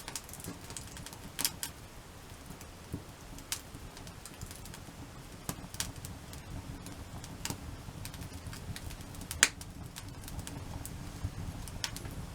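Wood campfire stacked in a log-cabin (igeta) frame, crackling with irregular sharp pops, the loudest about nine and a half seconds in, over a low steady rumble.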